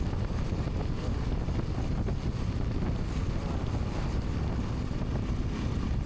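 Wind buffeting the microphone of a moving motorcycle, a steady low rumble with engine and road noise mixed in.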